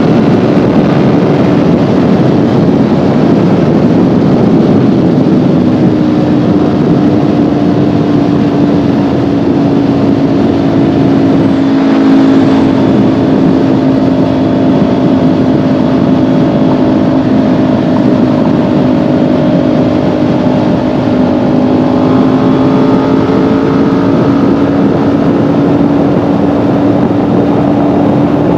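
Kawasaki Ninja 400's parallel-twin engine running at a steady cruise under way, its pitch holding nearly level with only slight rises, over a steady rush of noise.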